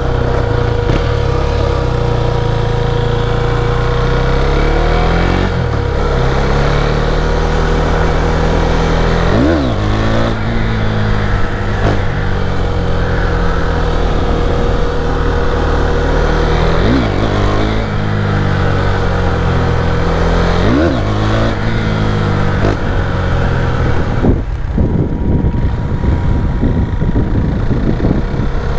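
A 2017 KTM Duke 390's single-cylinder engine running under way as the motorcycle is ridden, its note rising and falling with the throttle, with three quick dips and recoveries in pitch along the way.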